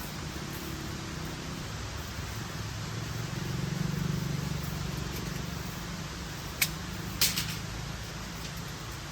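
A low vehicle engine hum that swells and fades over a steady rushing noise, then two sharp clicks about two-thirds of the way through.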